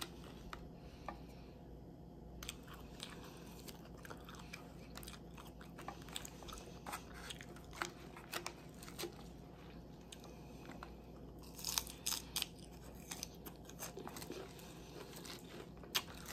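Salad being chewed and crunched: scattered faint crunches and clicks, with a short cluster of louder crunches about twelve seconds in.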